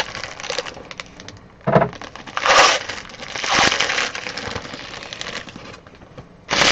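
Trading card pack wrappers being torn open and crinkled by hand: several irregular bursts of crackling plastic, the loudest a few seconds in.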